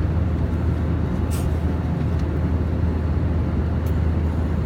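Steady airliner cabin drone: engine and airflow noise, low and even, with a couple of faint ticks on top.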